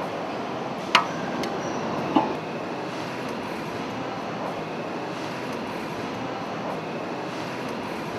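Two sharp metallic clanks, about a second apart near the start, the first ringing briefly, as steel tooling is fitted to the cylinder head studs, over a steady mechanical drone.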